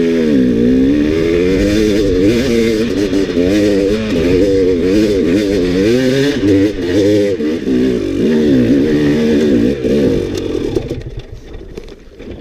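Dirt bike engine revving, its pitch rising and falling again and again as the throttle is worked over rough ground. It fades away about ten and a half seconds in.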